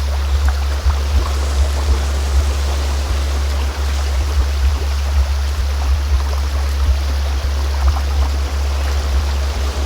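A steady low drone of a sound-healing frequency tone, the loudest part, over the continuous rush of flowing stream water.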